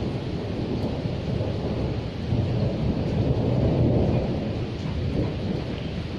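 Steady rain with a low rolling rumble of thunder that swells a little past the middle and then eases off.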